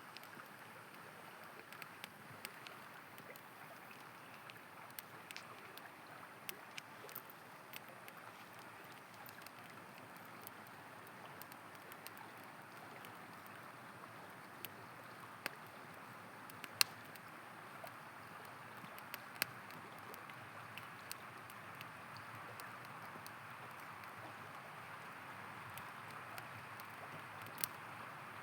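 A river flowing with a steady rush while a campfire crackles, giving scattered sharp pops, a few of them louder.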